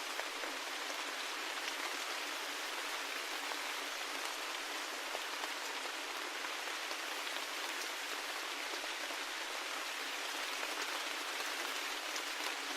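Steady rain falling: an even hiss of rain with scattered sharper drop ticks.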